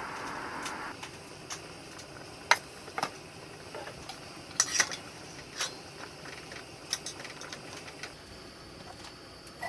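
Cookware and utensils clinking and knocking: about a dozen scattered sharp taps, the loudest about two and a half seconds in and a quick cluster near the middle.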